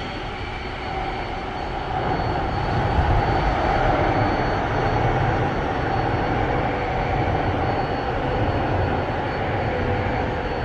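Electric commuter train moving past the platform on the far track of an underground station, its rumble and hum rising about two seconds in and then holding steady.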